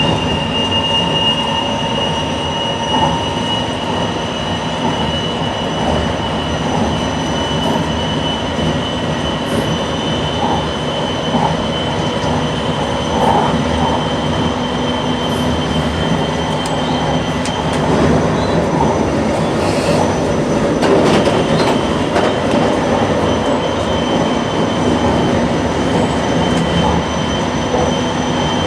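JR Shikoku 8600 series electric train running at speed, heard from inside the leading car. A steady rumble of wheels on rail carries several constant whining tones, and it gets a little louder and rougher about two-thirds of the way through.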